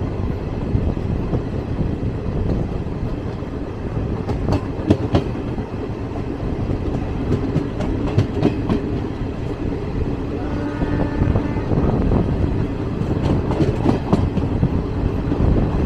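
Steady rumble of a moving train heard from on board. Wheels clack over the rail joints in short clusters of clicks every few seconds. A faint high tone comes in briefly partway through.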